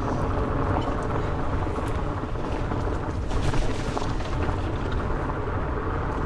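Wind buffeting the microphone while a fat bike's 4.8-inch Maxxis Minion tyres rumble over a loose dirt track at speed, with scattered small clicks and rattles.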